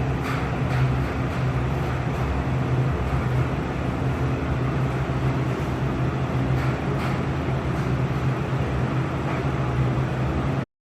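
Kitchen exhaust hood fan running steadily: a rush of air over a low motor hum, with a few faint clicks. It cuts off abruptly near the end.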